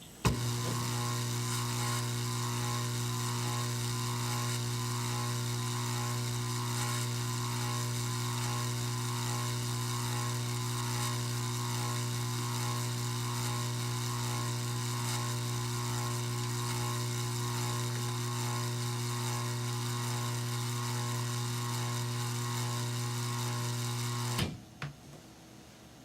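AC synchronous motor switched on with a click and running with a steady, loud low hum and a buzz above it. It cuts off suddenly near the end.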